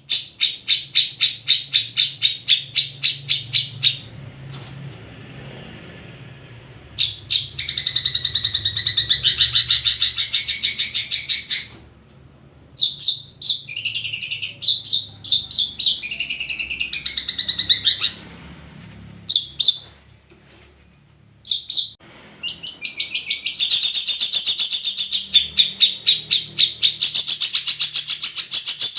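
Long-tailed shrikes (cendet) singing: fast runs of repeated harsh chattering notes, broken by short pauses, with varied warbling phrases in the middle.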